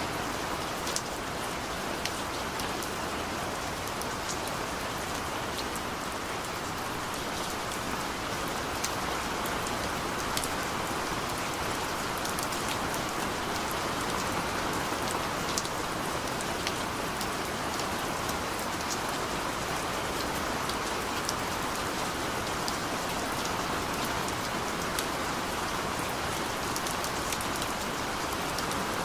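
Steady rain falling, an even hiss of rain with scattered sharper drop ticks.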